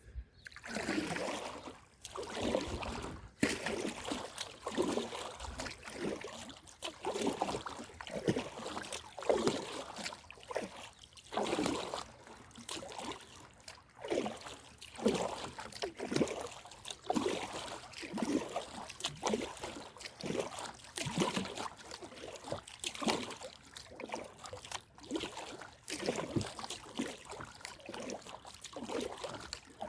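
Kayak paddle strokes in calm sea water: a steady run of splashing swishes, roughly one a second, with water trickling off the blades.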